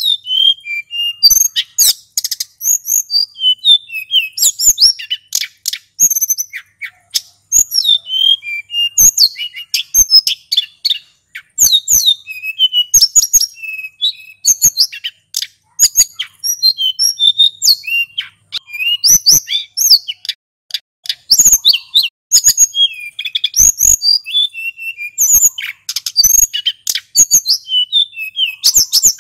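Male sulingan gunung singing without a break, as bird-keepers call 'ngeroll': quick, high-pitched chirps, sweeping whistles and twitters, each tumbling into the next with only brief gaps.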